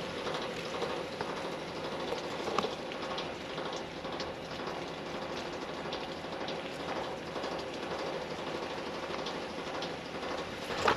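Steady hiss of water spraying from center-pivot irrigation sprinklers, with a few faint ticks scattered through it.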